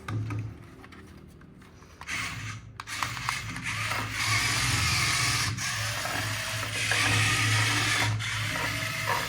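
Remote-control toy vehicle's small electric motor and gears running: a few clicks about two seconds in, then a steady mechanical whirr that rises and dips in level.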